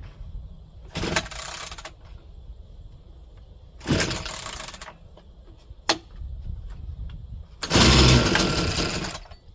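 Three pulls on the starter cord of an Echo CS-490 two-stroke chainsaw, each a rasp of about a second, the third the loudest. The owner is checking how easily the freshly fuelled saw starts.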